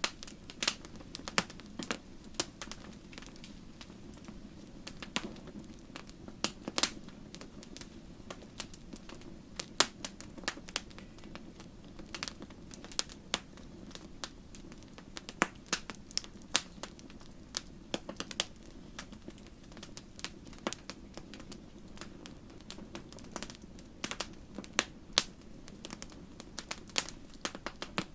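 Campfire wood burning, with irregular sharp crackles and pops over a soft steady low rush of flame.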